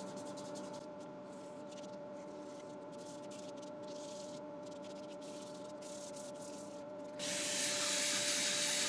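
Wood lathe running with a steady hum while sandpaper rubs against the spinning yew bowl's rim in repeated strokes. About seven seconds in, a drill driving a 240-grit abrasive brush wheel starts up, much louder, with a steady whine.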